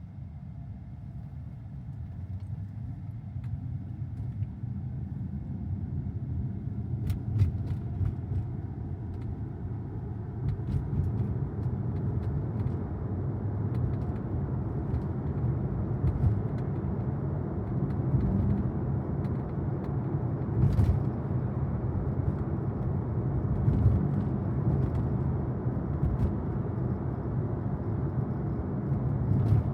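Road and tyre rumble from the electric 2023 Tesla Model Y Performance while driving, with no engine note. It grows louder over the first dozen seconds as the car picks up speed, then holds steady, with a few faint clicks.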